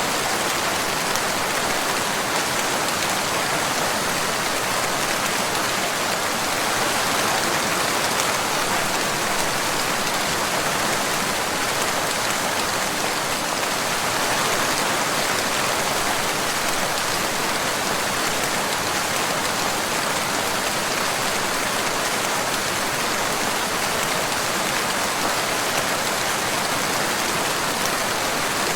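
Steady rain falling: an even, unbroken hiss of drops that does not change in strength.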